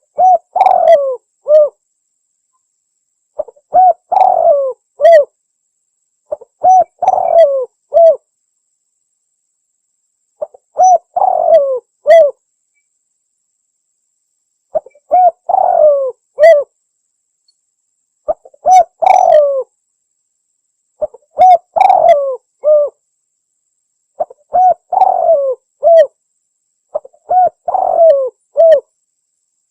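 Spotted dove cooing: a phrase of several coo notes, repeated about every three seconds, nine times over, with silence between phrases.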